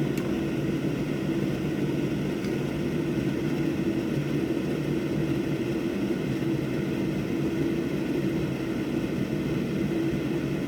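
Steady low electric motor hum from the microsoldering bench equipment, with a faint click just after the start.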